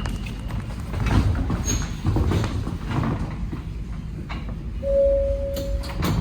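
Inside an Alstom NS-16 metro car: low steady rumble of the train with several knocks and clatters, and a short steady tone near the end.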